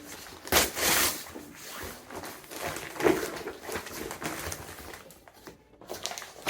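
Package being opened and its contents handled: a loud burst of rustling and scraping about half a second in, then scattered softer rustles and knocks that die down near the end.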